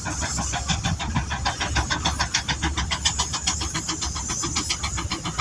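Steam traction engine chuffing under load as it pulls, its exhaust beats coming in a fast, even rhythm over a steady hiss of steam.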